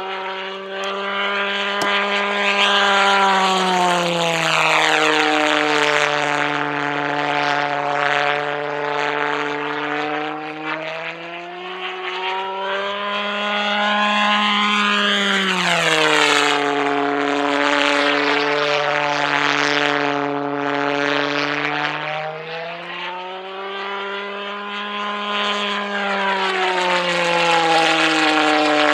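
Pulsejet engine of a radio-controlled Heinkel He 162 model running continuously in flight, a loud low buzzing drone whose pitch rises and falls several times as the model flies past.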